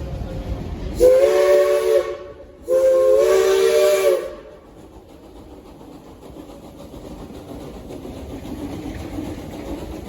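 Steam locomotive whistle blown twice: a blast of about a second, then a longer one of about a second and a half, each a chord of several tones. After the blasts the train runs on along the track, much quieter.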